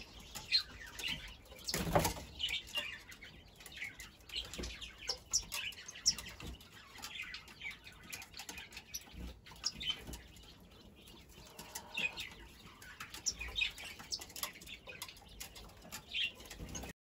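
Small birds chirping in many short, high calls, with one sharp knock about two seconds in.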